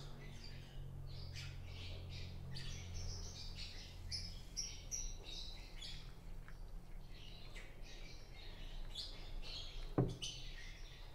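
Pet birds chirping over and over, short high calls scattered throughout. A low hum runs under the first few seconds, and there is a single knock about ten seconds in.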